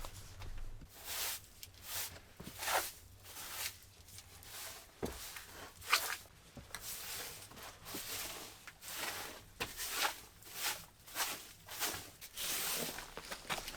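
Footsteps crunching through snow, a steady walking pace of short scrunching steps.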